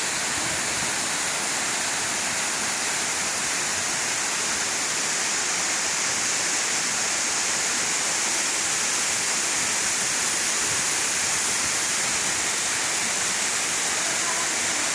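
Steady rush of falling water from a forest waterfall, an even hiss that stays at one level throughout.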